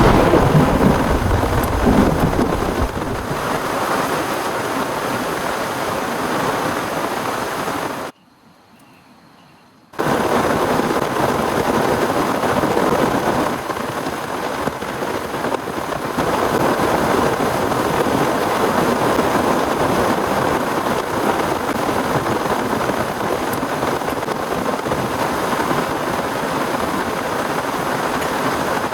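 Thunderstorm: a low rumble of thunder in the first few seconds over heavy, steady rain. The sound drops out for about two seconds around eight seconds in, then the heavy rain carries on.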